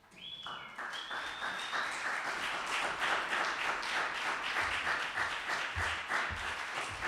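Audience applauding: many hands clapping densely, starting about a third of a second in, with a high thin tone, such as a whistle, above it in the first couple of seconds.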